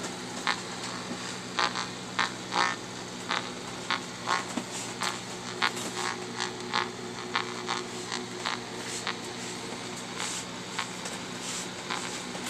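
Microwave oven running with a steady hum, while a nearby Grundig G5 shortwave radio gives irregular crackles of static. The crackling is interference from the oven's RF leakage.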